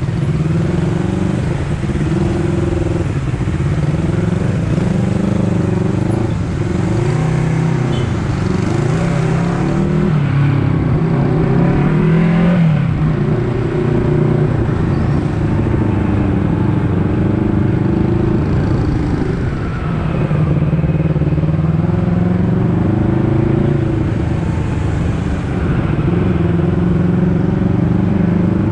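Honda CBR250RR's parallel-twin engine pulling under way while ridden. Its note rises and falls over and over as the throttle is opened and eased and the gears change.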